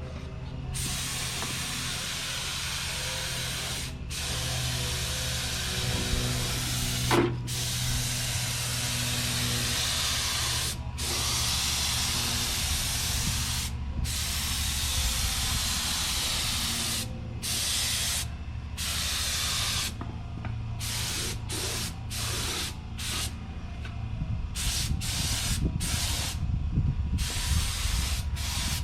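Harbor Freight paint spray gun hissing as gloss white enamel is sprayed on a pickup truck, in long passes broken by short breaks that come more often in the second half, over a steady low hum.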